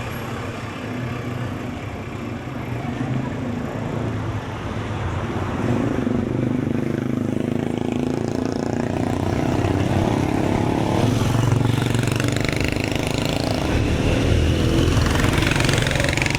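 Street traffic: vehicle engines running close by, growing louder about halfway through, over a haze of background voices.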